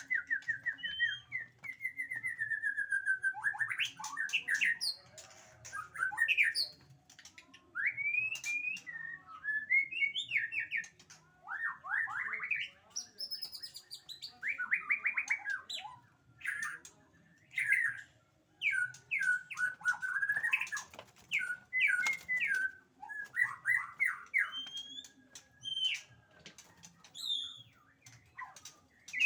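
A murai songbird singing a varied, fast song: rapid trills, rising and falling whistles and sharp chips, delivered in bursts with brief pauses between phrases.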